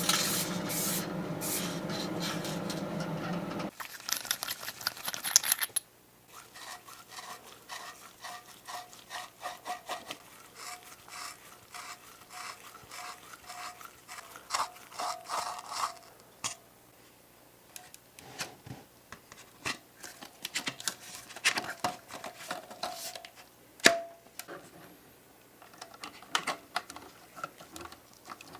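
A steady, loud hissing or whirring noise cuts off suddenly about four seconds in. After it come irregular hand rubbing and scraping strokes on a small part, as in sanding or filing, with one sharp click near the end.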